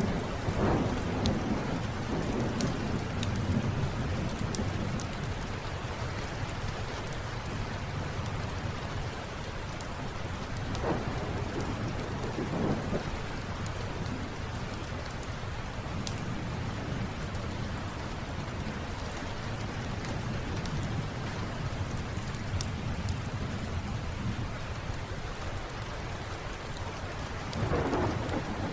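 Steady rain with thunder rumbling, swelling near the start, about midway and again near the end, over scattered sharp crackles of a wood fire in a fireplace.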